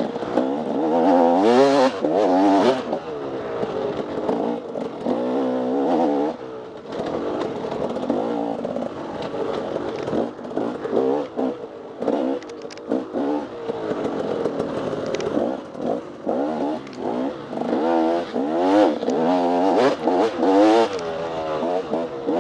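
Off-road dirt bike engine revving up and down repeatedly as it is ridden hard over rough ground, the pitch climbing and dropping every second or two, with a few sharp knocks and clatters.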